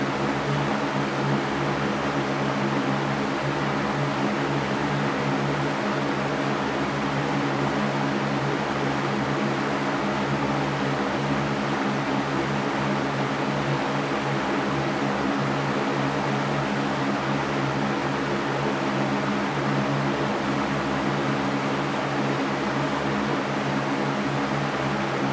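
Electric fan running steadily: an even rush of air over a low hum of several steady tones.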